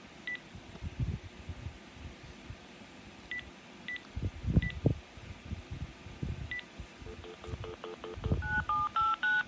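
Phone being dialled: short single keypad beeps scattered over the first seven seconds, then a quick run of lower pulses and, near the end, a fast string of touch-tone dial tones. Low knocks from handling the phone run underneath.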